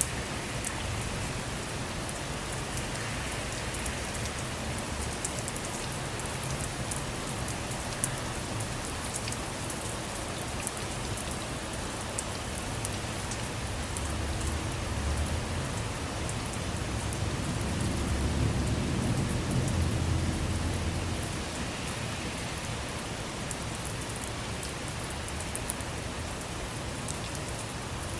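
Steady rain with many small drop ticks. A low rumble of distant thunder swells about halfway through and rolls for several seconds before fading.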